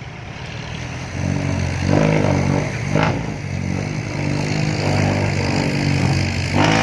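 Dump truck's diesel engine with a loud straight exhaust pulling hard under heavy throttle, getting louder from about a second in, with a couple of sharp knocks over it.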